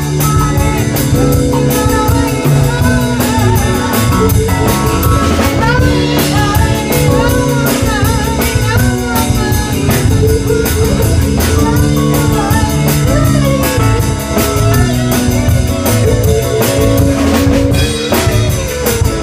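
Live rock band playing a blues-rock song: guitar over a drum kit, with a steady beat throughout.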